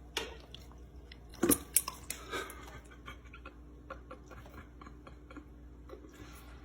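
A dog licking and lapping at sparkling water, making wet mouth clicks and smacks. A few louder smacks fall in the first two and a half seconds, then fainter licks follow.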